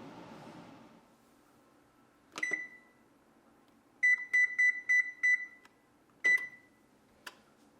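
Kitchen appliance keypad beeping as its buttons are pressed: one beep, a quick run of about seven, then one more, followed by a small click.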